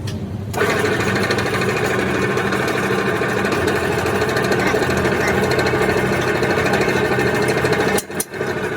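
A loud, steady machine noise, typical of a workshop power tool, starts abruptly about half a second in and cuts off sharply near the end, over a low steady hum.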